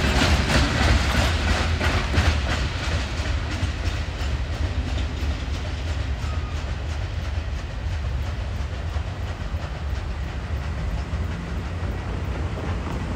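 A train's cars rolling past, their wheels clicking over rail joints above a steady low rumble. The clicking is loudest in the first few seconds, then the sound eases off and holds steady.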